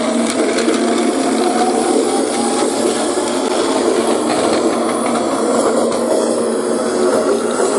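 Battery-powered Plarail toy train running along plastic track, its small motor and gears giving a steady whirring rattle.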